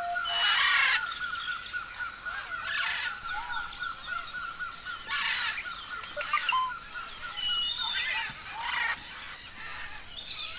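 Several parrots calling. There are harsh squawks about every two to three seconds, four in all, with scattered whistled and sliding notes over a steady, rapid chirping trill.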